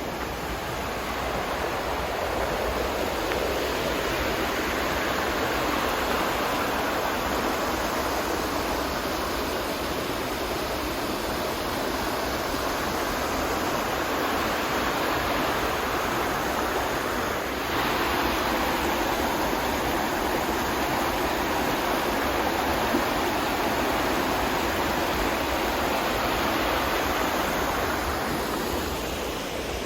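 River rapids rushing steadily, with white water running over the rocks. The rush grows a little louder just past halfway.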